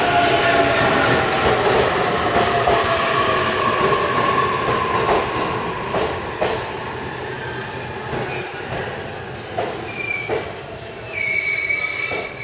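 E531 series electric train slowing as it pulls into the station: its motor whine falls in pitch and fades over the first few seconds, with a few knocks of wheels over rail joints. About eleven seconds in, the wheels start a steady, high-pitched squeal.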